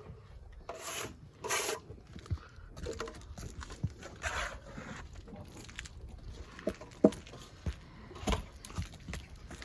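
Irregular scraping and rubbing with scattered sharp knocks and clicks, the loudest a single sharp click about seven seconds in.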